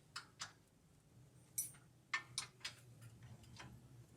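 Scattered sharp clicks and taps of hand tools on metal suspension parts during repair work, about seven, unevenly spaced, over a faint low hum.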